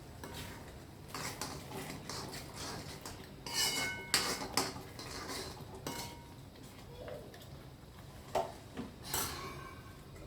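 Metal utensils clinking and scraping against a metal pot or bowl in irregular knocks, as when mixing or stirring. The loudest knocks come about four seconds in and again near nine seconds, one of them ringing briefly.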